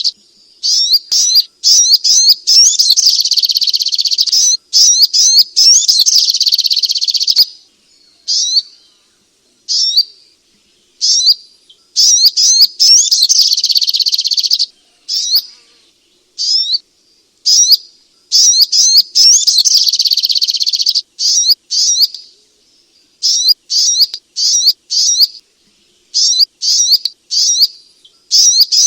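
Little spiderhunter (sogok ontong) calling with rapid, high chirps. The chirps come in dense runs of a few seconds, broken by gaps with scattered single notes.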